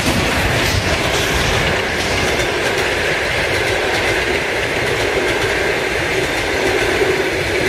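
A passenger train passing fast over a level crossing, its wheels running on the rails with a loud, steady noise.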